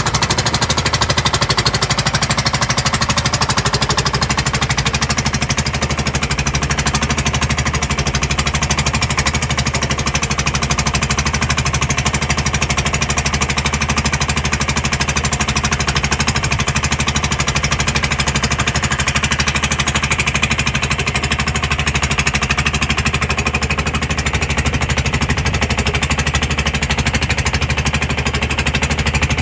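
A small boat's diesel engine running steadily at cruising speed, a loud, fast, even knocking beat.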